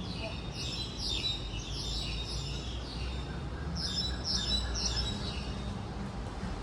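A bird calling a rapid series of short descending chirps, about two a second. One run lasts through the first three seconds and a second run comes about four seconds in. A low steady rumble sits underneath.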